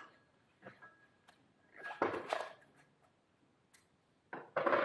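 A few separate knocks and clunks of metal parts being handled as an attachment is fitted to a belt grinder, with a louder clunk about two seconds in and another near the end.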